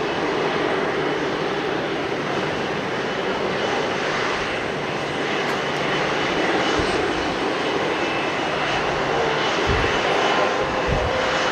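Airbus A330-300's Rolls-Royce Trent 700 turbofans running with a steady jet rumble and hiss. A few short low thumps of wind on the microphone come in the second half.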